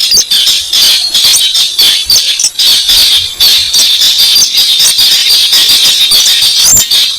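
Recorded lure call of the weris bird: a loud, rapid, rattling chatter of high-pitched ticks that runs on without a break.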